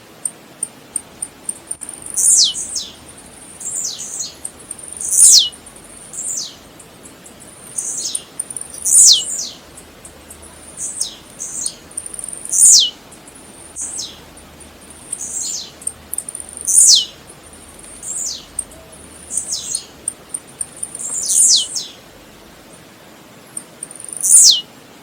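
Blue-black grassquit (tiziu) singing: short, sharply falling high notes repeated about every one to two seconds, with faint high ticks between them.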